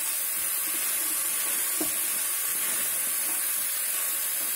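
Diced raw banana pieces sizzling steadily as they fry in oil in a nonstick pan, stirred with a spatula.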